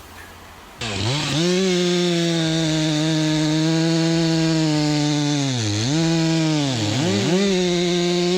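Chainsaw engine running at high revs. It starts abruptly about a second in and holds a steady, high note, which dips briefly and recovers a few times in the second half.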